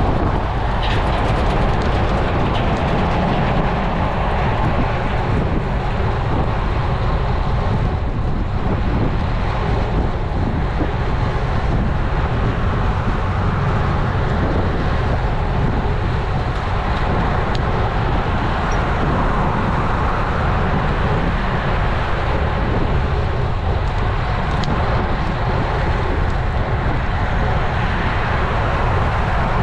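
Steady wind rush on an action camera's microphone, mixed with tyre and road noise from a road bike riding at speed.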